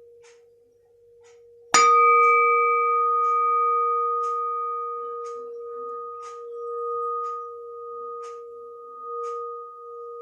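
A frying-pan lid struck once about two seconds in, ringing on with a clear bell-like tone that slowly fades and wavers. Clock ticking steadily underneath.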